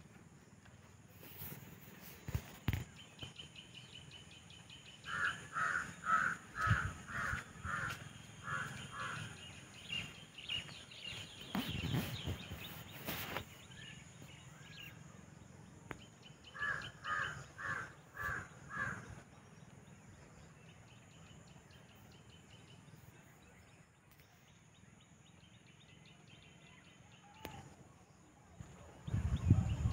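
Outdoor birdsong: a bird gives two runs of quick, evenly spaced calls, about seven in the first run and five in the second, over fainter higher chirping. A few knocks and rustles come near the start, in the middle and at the end.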